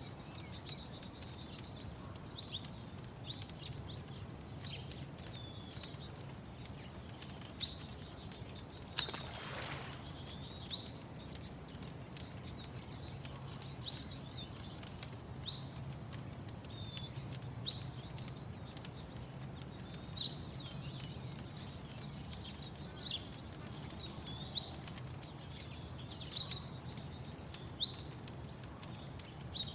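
Small birds giving short, high chirps again and again, over scattered faint crackles of a wood fire and a steady low background hum. About nine seconds in there is a brief rushing sound.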